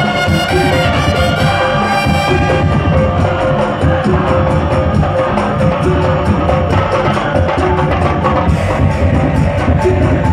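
Madurese daul music played loud: a held, horn-like melody over dense, continuous drumming and percussion.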